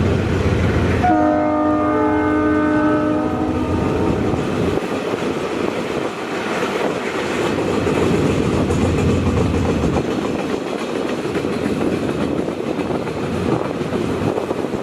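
Locomotive horn sounding one chord for about two seconds, starting about a second in, over the steady rumble and clatter of a train running past on the rails.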